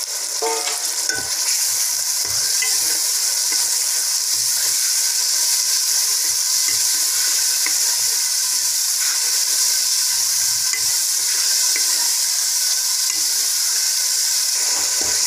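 Chopped tomatoes sizzling in hot ghee in a metal cooking pot, a steady frying hiss, with a ladle stirring and tapping the pot now and then.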